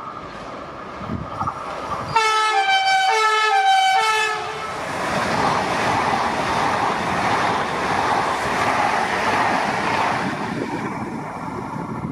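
A passing train sounds its horn for about two seconds, with the pitch stepping between notes. It is followed by the steady rushing rumble of the train running through the station, which eases off near the end.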